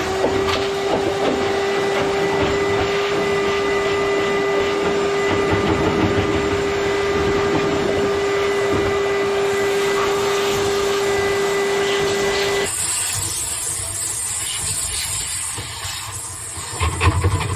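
Vacuum cleaner drawing air through a long dryer-vent hose attachment: a steady whine over a rush of suction air. About thirteen seconds in the whine drops out and a thinner, hissier air sound carries on.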